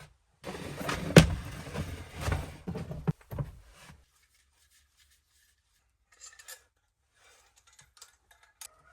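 Objects being handled: a few seconds of rubbing and clattering with sharp knocks, the loudest a little after a second in, then quiet with a few faint clicks near the end.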